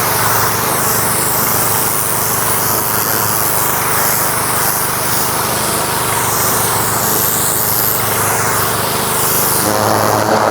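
Pressure washer running: a steady small-engine drone with the constant hiss of the water spray. The engine note shifts slightly near the end.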